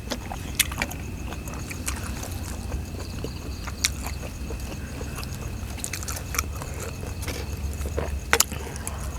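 Eating sounds: chewing and biting, with sharp clicks now and then, over a low steady background hum.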